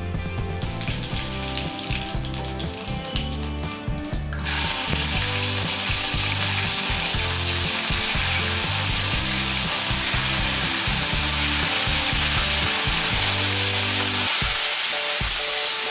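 Cumin seeds crackling in hot oil in a non-stick kadai. About four and a half seconds in, a sudden loud sizzle starts as ginger-garlic paste goes into the oil, then settles into a steady frying hiss while it is stirred. Background music plays underneath.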